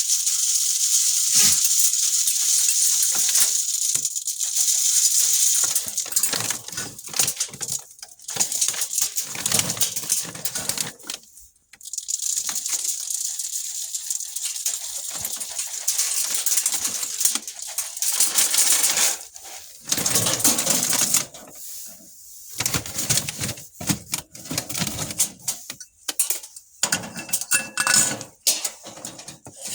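Dense rapid clicking and rustling, like many small hard things rattling and being handled, in uneven stretches with short breaks.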